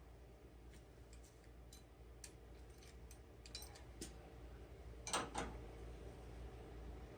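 Faint scattered clicks and ticks of hand tools and metal parts being handled, with two louder clinks close together about five seconds in.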